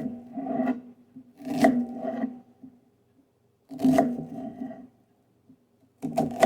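Kitchen knife slicing through an onion onto a cutting board: four separate cuts about two seconds apart, each a quick scrape ending in a knock with a short ring.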